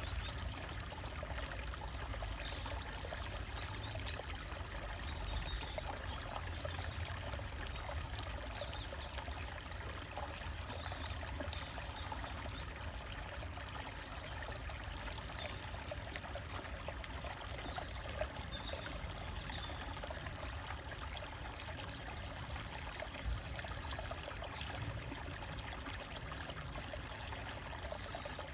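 Small stream trickling and gurgling over rocks, a steady unbroken babble of water.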